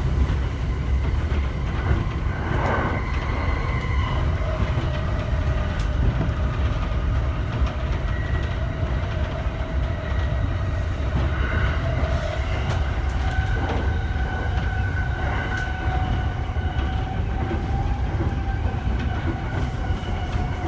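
Inside the passenger cabin of a JR East E231-1000 series electric train running along the line: a steady rumble of wheels on rails, with a few faint steady tones above it.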